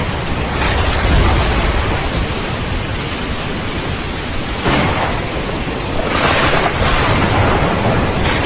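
Steady heavy rain with thunder rumbling low underneath. A sudden sharper thunderclap breaks in about halfway through, and another swell of thunder follows soon after.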